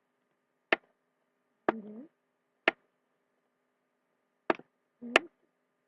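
Sharp, separate clicks or taps, about five in all, spaced irregularly about a second apart, from work on a drawing board. Two of them are followed by a brief low murmur.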